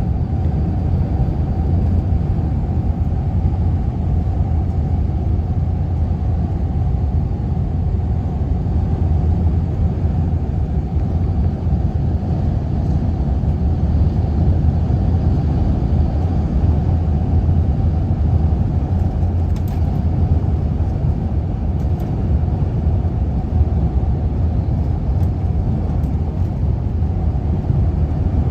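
Strong wind buffeting the microphone: a loud, steady, low rumble with no break.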